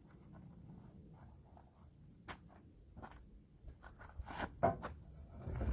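Footsteps scuffing and crunching on dirt, a scatter of short scrapes and clicks, with a louder run of scuffs about four seconds in.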